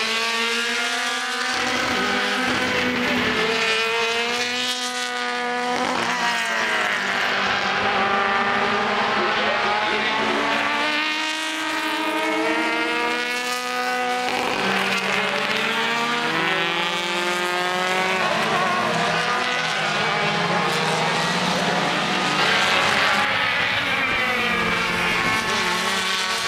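Several racing touring cars running at full race pace, their engines overlapping as they rev up and fall back through gear changes, again and again.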